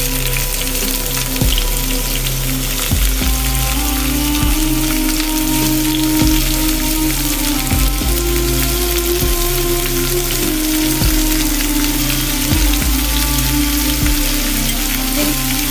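Food frying in hot oil in a pan: a steady, dense sizzle throughout, heard over background music with held notes.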